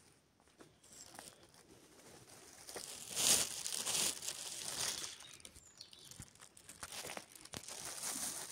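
Rustling and crinkling with a few short snaps, loudest from about three to five seconds in, as of plants or material being handled.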